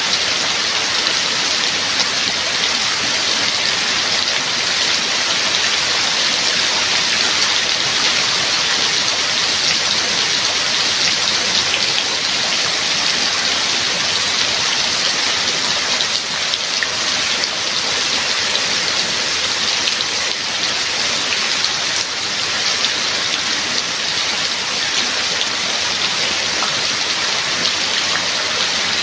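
Steady heavy rain falling in a continuous even hiss, with no thunder or other events.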